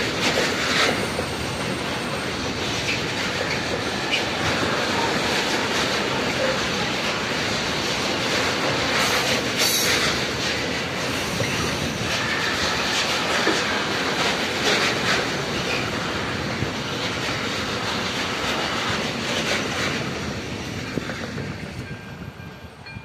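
Container freight train passing close by: steady noise of steel wheels running on the rails. It fades from about twenty seconds in as the end of the train goes by.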